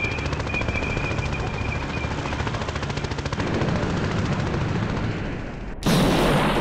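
Rapid automatic gunfire, a fast, even rattle of shots. Just before the end it cuts abruptly to a louder, different burst of noise.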